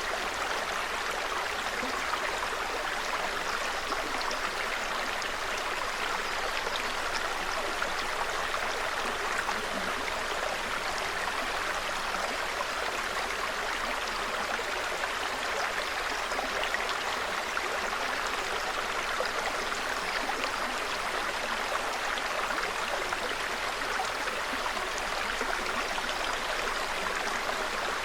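A small mountain stream running steadily, an even, unbroken rush of water.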